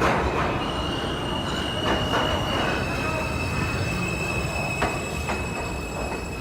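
New York City subway train running on the rails: a steady rumble with a thin, high-pitched wheel squeal that drops slightly in pitch about two and a half seconds in, and a few sharp clicks from the track.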